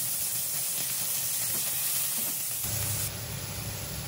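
Scallops frying in oil in a metal wok over low heat, a steady sizzling hiss that drops a little in level about three seconds in.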